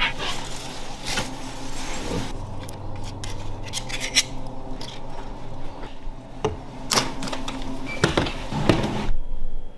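Scraping and knocking of a utensil against a large cast-iron cauldron, in irregular strokes with several sharp knocks.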